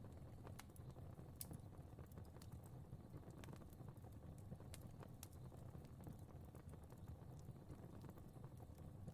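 Fire crackling softly: irregular sharp pops and snaps over a low, steady rumble of flames.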